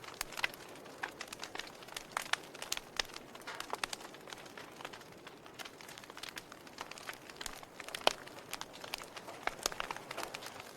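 Log fire crackling: irregular sharp pops and snaps from the burning wood over a soft hiss, with one louder snap about eight seconds in.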